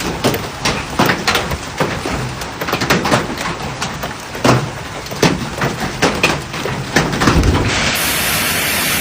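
Hailstones striking a hard surface in irregular sharp knocks, several a second. About eight seconds in, this gives way suddenly to the steady hiss of heavy rain.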